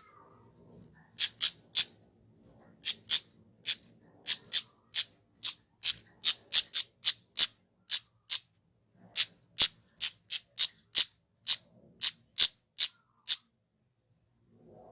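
Kemade (flowerpecker) calling: about thirty sharp, very short, high-pitched chip notes in quick runs of two to four. They go silent about a second and a half before the end.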